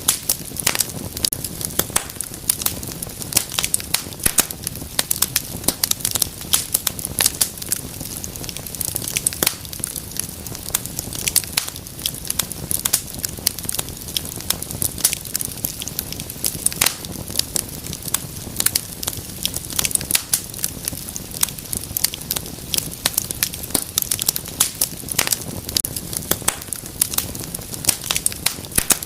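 Wood fire in a fireplace crackling and popping: many irregular sharp snaps over a steady low burning rumble.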